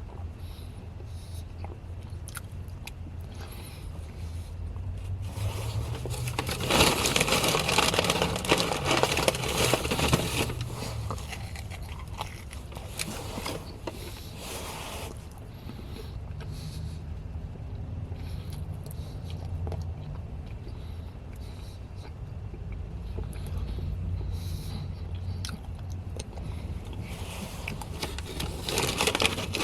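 Eating sounds, biting and chewing food, over a steady low hum. A louder rushing sound swells and fades between about six and eleven seconds in, and again more briefly near the end.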